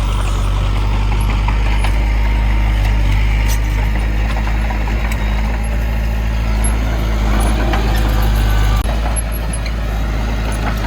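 Heavy construction machinery's diesel engine running steadily with a deep, even hum.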